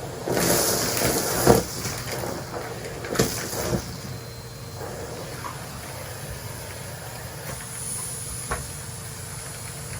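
Henry vacuum cleaner running with a steady hiss of suction, louder in the first couple of seconds, with a few sharp clicks as it picks things up.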